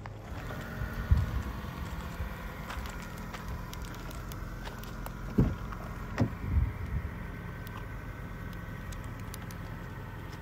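A car engine idling steadily, with a few dull bumps, the loudest about a second in and two more between five and seven seconds in.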